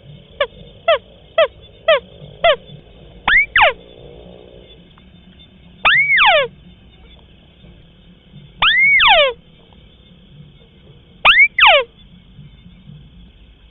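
White-browed crake calling: a run of five quick whistles, each sliding steeply down, then pairs of longer falling notes that swell and drop, repeated every two to three seconds.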